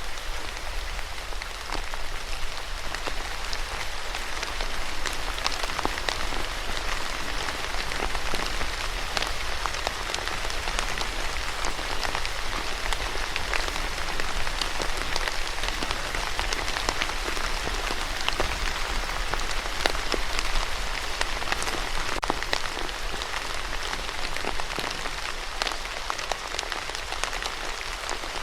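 Steady rain falling, a dense hiss of many drops with fine individual drop taps scattered through it.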